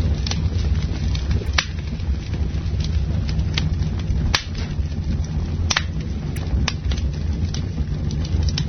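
Wood fire burning with a steady low rumble, dotted with constant small crackles and a handful of louder, sharp pops from the burning wood.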